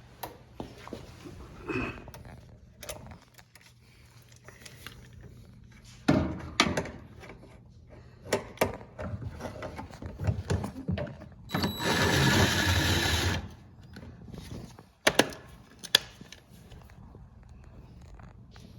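Electric screwdriver running for about a second and a half, driving a screw into a washing machine's frame, among clicks and knocks of screws, tools and parts being handled.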